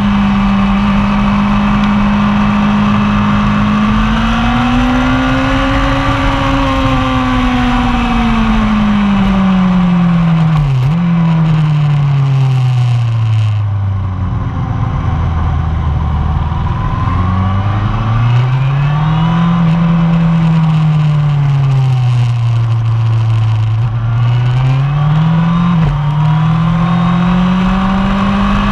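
1999 Yamaha R1's inline-four engine heard on board at speed on a race track, its note rising and falling as the rider opens and closes the throttle through the corners, sinking low near the middle before pulling up again. Two brief breaks in the note come about eleven and twenty-six seconds in.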